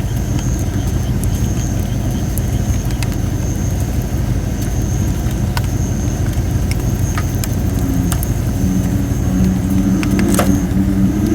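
Campfire of thin, not fully dried red robin (Photinia) firewood: a steady high hiss from the damp wood, scattered crackles, and one loud pop about ten seconds in. Low croaking calls, typical of a bullfrog, come in over the last few seconds above a steady low rumble.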